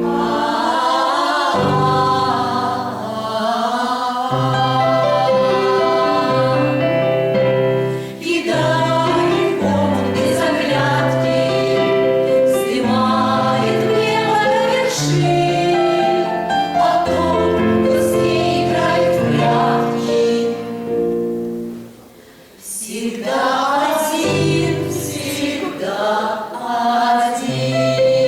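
Women's vocal ensemble singing a song in several-part harmony over steady low accompanying notes, with a brief break about 22 s in before the singing resumes.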